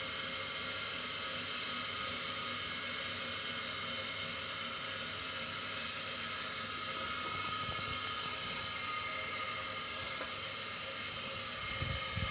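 Steady background hiss and hum with no distinct event, and a few light knocks near the end.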